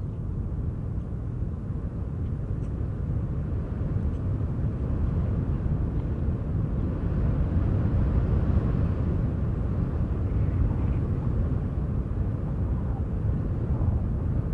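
Wind buffeting the microphone outdoors: a steady low rumble that grows a little louder toward the middle.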